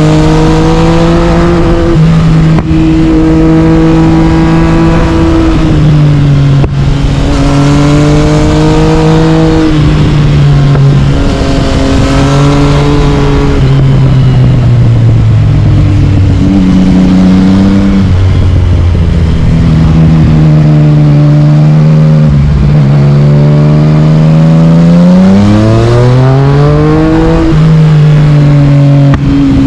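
Yamaha MT-09 inline-three engine through an Akrapovic carbon exhaust, pulling hard on a winding road. The revs rise and drop with quick upshifts and later fall and climb again through the bends.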